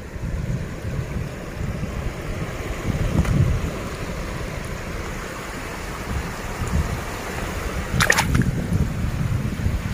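Wind rumbling on the microphone over the wash of shallow sea water on a beach, with a sharp click about eight seconds in.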